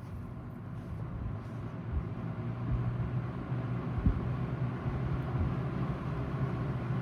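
Vintage Kmart K223 second-generation box fan running on medium speed: a steady motor hum under a broad rush of air that grows louder as the blades come up to speed. A short low thump about four seconds in.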